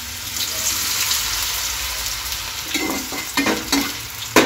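Small cornflour-coated soya chunks sizzling in hot oil in a pan. From about three seconds in, a spatula stirs and scrapes them around the pan in short strokes, with one sharp knock near the end.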